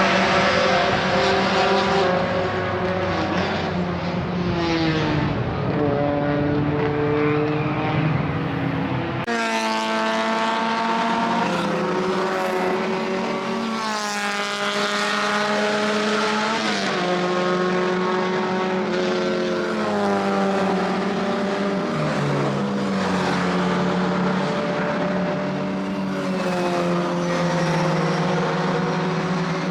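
Classic racing cars running on a circuit, their engines revving up through the gears and easing off in repeated rising and falling sweeps. The sound changes abruptly about nine seconds in.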